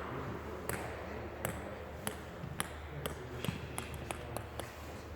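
A table tennis ball bouncing about ten times, with sharp pinging clicks that come faster and faster, typical of a ball bouncing down to rest.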